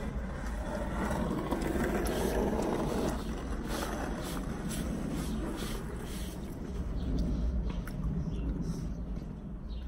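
Close-up chewing and lip-smacking while eating a taco: a run of short wet clicks and smacks, over a steady low rumble.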